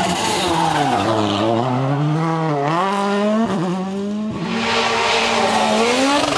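A World Rally Car's 1.6-litre turbocharged four-cylinder engine revs hard through changing speeds. Its pitch drops about a second in, climbs and falls again around three seconds, then climbs through the last two seconds. A rushing hiss of tyre noise comes with the final climb.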